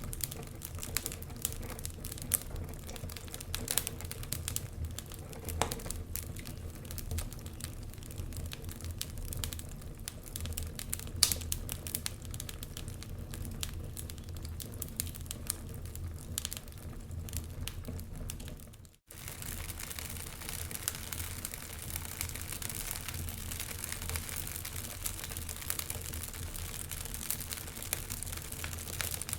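Wood fire in a fireplace crackling, with many irregular sharp pops and snaps from the burning logs over a low hiss. The sound cuts out for an instant about two-thirds of the way through, then carries on.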